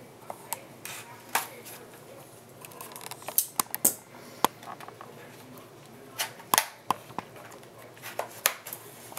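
RAM packaging being cut and pried open with a knife: irregular sharp clicks, snaps and crackles of plastic, loudest in clusters a few seconds in and again past six seconds.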